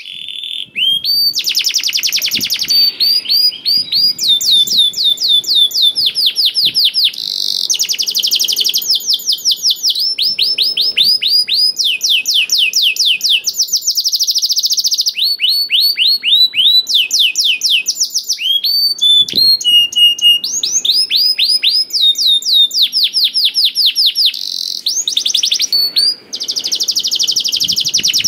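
Male domestic canary singing nonstop: long rapid trills of quickly repeated down-sweeping notes, switching to a new phrase every second or two, with a brief break near the end.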